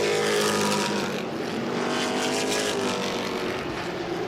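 A field of modified race cars running at racing speed on an oval track. Several engine notes overlap, their pitch drifting up and down as the cars pass.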